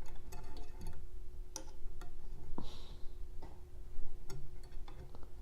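Irregular small clicks and taps of metal printer-kit parts and hand tools being handled during assembly, over a faint steady hum.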